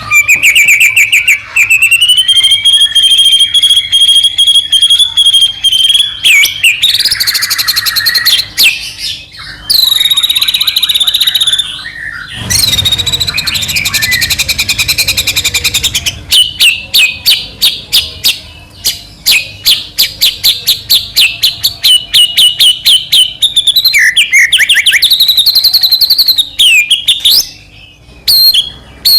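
White-rumped shama (murai batu) singing a loud, continuous, varied song. It mixes fast trills and held whistles, has a harsh rasping stretch about halfway through, and ends in long runs of rapid repeated notes.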